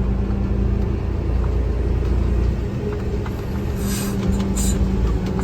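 Diesel engine of a front-load garbage truck running steadily as the truck drives, heard from inside the cab, with two short hisses near the end.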